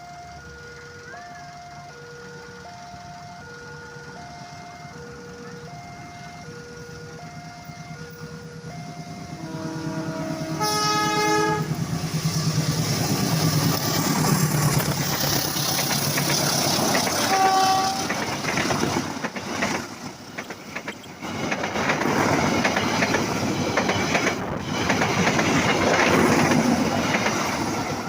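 Alternating two-tone warning beeps of a railway level-crossing alarm, then a diesel locomotive horn blows about ten seconds in. A passenger train passes close by with loud running noise and wheel clatter, and gives a short second horn blast partway through.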